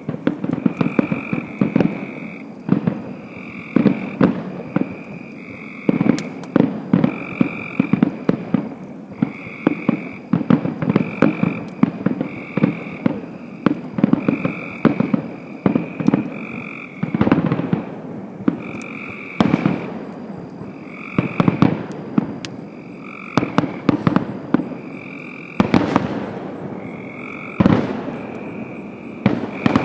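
American bullfrog croaking over and over in deep, low calls, with a few distant firework bangs going off in the second half.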